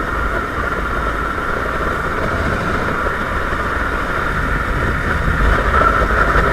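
Motorcycle engine running steadily, getting a little louder near the end.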